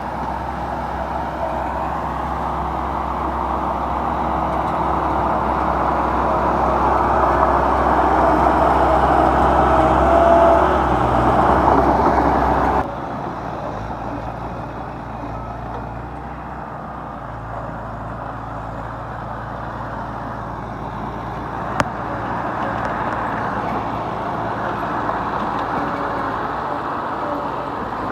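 Heavy diesel construction machinery running steadily. The sound drops abruptly in level about halfway through, and there is a single sharp click about three quarters of the way in.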